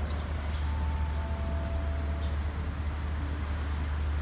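Steady low rumble of a diesel passenger train idling beside the platform.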